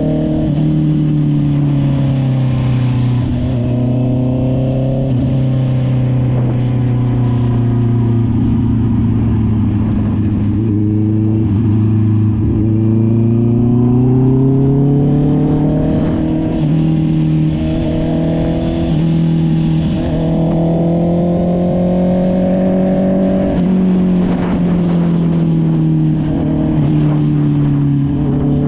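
Honda CB650R's inline-four engine through an SC-Project aftermarket exhaust, running under way. Its pitch rises and falls several times, with sudden drops in between.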